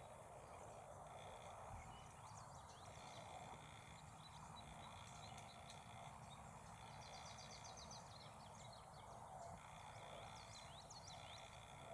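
Faint outdoor ambience with scattered high small-bird chirps and a brief rapid trill about seven seconds in.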